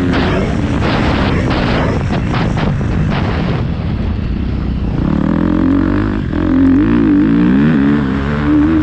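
Motocross bike engine being ridden on a dirt track, covered by loud rough noise for the first few seconds; from about five seconds in the engine note rises and falls with the throttle.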